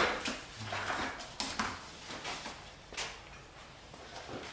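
A few light clicks and clanks of tools and engine parts being handled, spaced out over low background.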